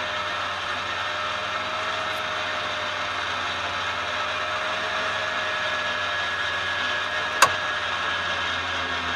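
Cessna 150's Continental O-200 engine and propeller droning steadily, heard inside the cockpit. A single sharp click comes about seven seconds in.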